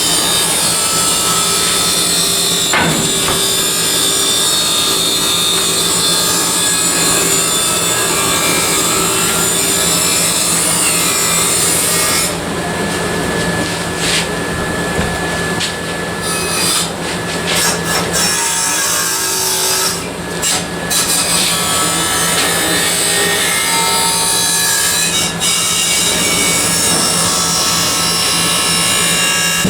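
Handheld abrasive power tool working sheet metal: a steady, loud scraping over a constant motor hum. It eases off several times between about 12 and 21 seconds in, then runs on.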